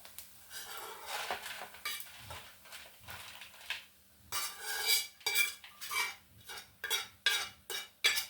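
A spoon scraping and knocking against a cooking pot (safuria). For the first few seconds it is irregular scraping; from about four seconds in come sharper clinks with a brief ring, about two a second.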